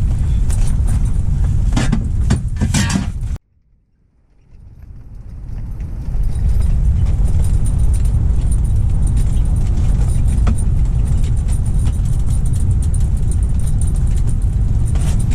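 Strong wind buffeting the microphone on open ice, a loud, steady rumble with scattered light clicks early on. It cuts out abruptly about three and a half seconds in and fades back up over the next couple of seconds.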